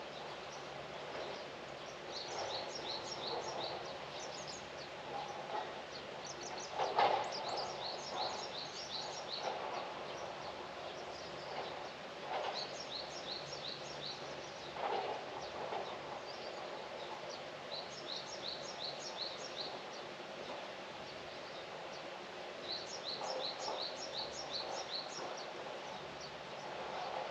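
A small songbird singing phrases of quick, high, down-slurred notes, about five a second, repeated every four to five seconds, over steady outdoor background noise.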